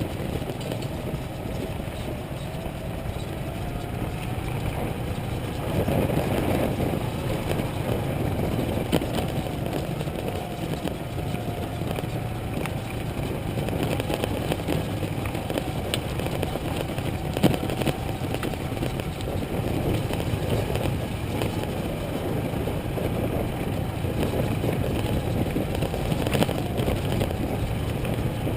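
Motorcycle engine running steadily while being ridden, its pitch wavering a little with the throttle.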